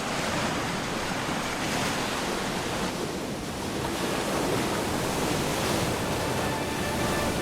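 Ocean surf: a steady rushing wash of waves that swells and eases slightly.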